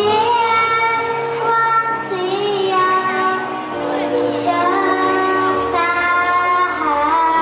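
A girl singing a song with held, wavering notes over backing music.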